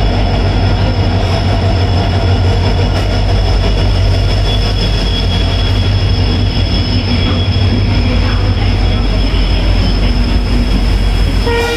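Indian Railways passenger train running past a station platform: a steady low rumble of the coaches with a thin, steady high-pitched wheel squeal throughout. A train horn starts to sound right at the end.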